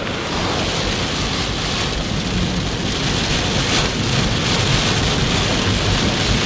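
Heavy rain pouring steadily on and around a moving car, a continuous hiss with a low rumble underneath.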